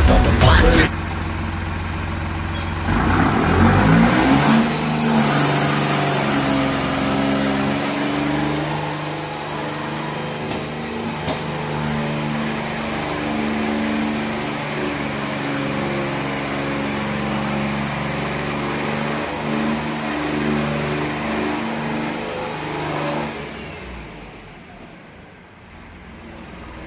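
Massey Ferguson 9500 tractor's diesel engine running under load, its pitch stepping up and down as the revs change, then fading away near the end.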